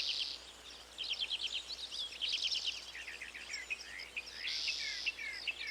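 Several birds chirping and twittering: a busy run of quick high chirps and short falling whistles, with now and then a brief buzzy trill.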